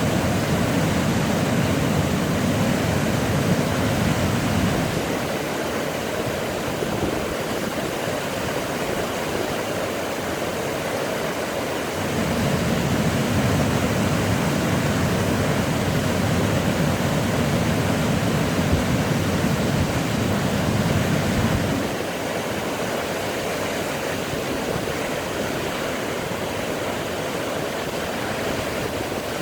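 Large waterfall rushing with a steady, full roar of falling water. A deeper rumble swells in the first five seconds and again from about twelve to twenty-two seconds in.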